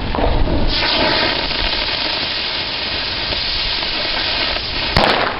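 Gunpowder burning with a loud, steady hiss for about four seconds, ending in a sharp click.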